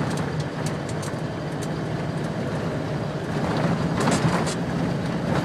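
A vehicle driving slowly over a rough dirt road, heard from inside: a steady low engine drone under road noise, with scattered clicks and knocks from the bumpy surface and a louder jolting stretch about four seconds in.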